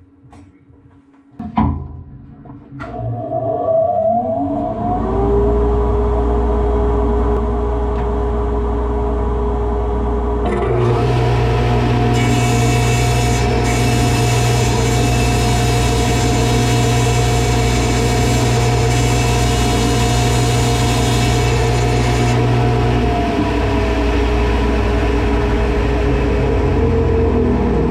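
Table saw and its dust collector running: after a click, one motor winds up with a rising whine about three seconds in, and a second joins about ten seconds in with a louder hum and a rush of air. The second stops about twenty-two seconds in and a tone falls away as it coasts down, while the first keeps running.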